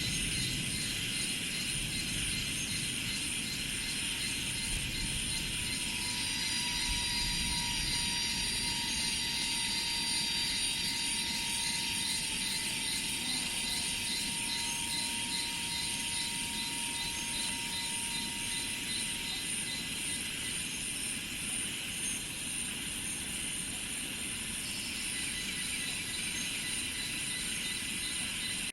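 Steady chorus of insects, cicadas among them, trilling in fast, even pulses at several pitches. A thin, steady, higher tone joins about six seconds in and fades out a little past the middle.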